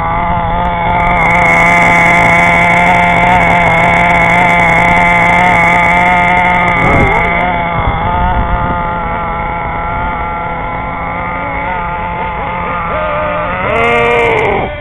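Nitro RC car's small glow-fuel engine running at high revs with a steady high-pitched buzz, dipping briefly about halfway through and revving up and back down near the end.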